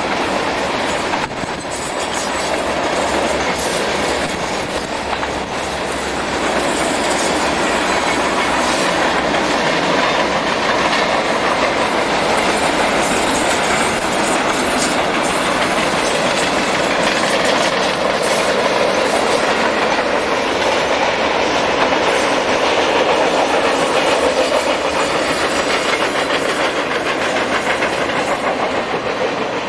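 Freight train cars rolling past, a steady rumble with the wheels clicking over the rail joints; it grows a little louder about six seconds in.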